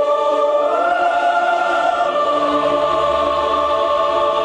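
Choir singing long held notes in harmony.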